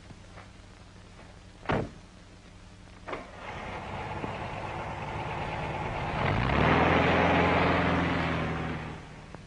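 A car door shuts with a sharp knock. A Volkswagen's engine then starts, rising in pitch as it catches, runs steadily, and fades away.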